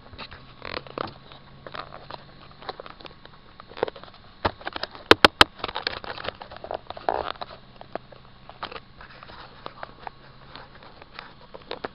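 Irregular knocks, clicks and rattles of an RC monster truck's chassis and onboard camera mount as it drives over rough ground, with a quick run of three sharp cracks about five seconds in as the loudest moment.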